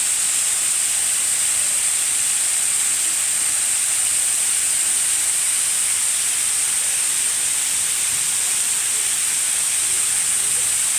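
Waterfall's water rushing in a loud, steady, even hiss.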